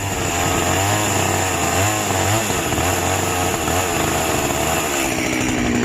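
Chainsaw running hard while cutting, its pitch sagging and recovering several times, then holding higher and steadier near the end.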